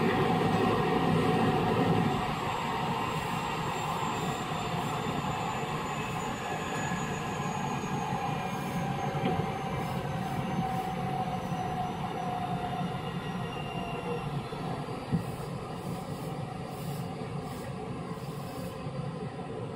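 Running sound inside an Osaka Metro 66 series refurbished electric train: steady wheel-and-rail noise with thin motor and inverter tones slowly falling in pitch as the train slows. The noise drops a little about two seconds in.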